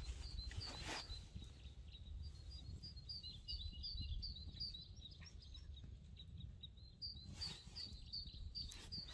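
A small songbird singing: runs of short, high chirping notes, several a second, with a pause in the middle and another run near the end, over a steady low rumble.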